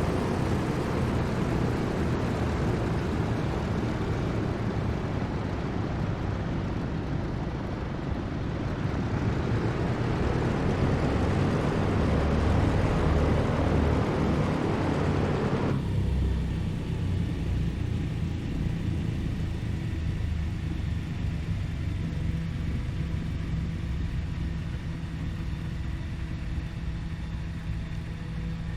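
Douglas DC-3's twin radial piston engines running, a loud steady drone with a deep rumble and rushing noise. About halfway through, the rushing noise drops suddenly, leaving a lower, steadier engine drone with a steady hum.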